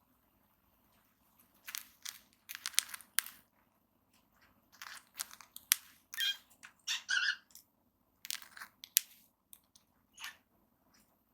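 A cockatiel grinding its beak, the upper and lower mandibles rasping together in bursts of short gritty clicks with quiet pauses between. Beak grinding is a sign of a relaxed, content bird, often heard as it settles down to rest.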